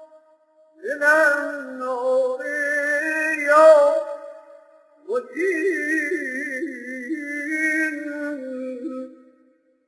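A man chanting an Arabic supplication in a melodic, melismatic style: two long sung phrases of held, wavering notes, with a short break about four seconds in.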